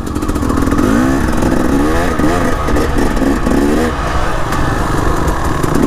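Dirt bike engine revving up and down several times as the rider works the throttle on a trail climb.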